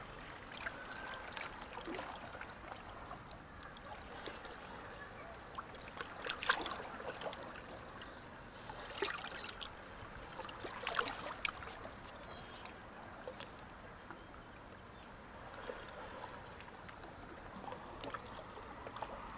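Small sea waves washing against the shore, with trickling and crackling splashes, and louder surges several times as waves come in.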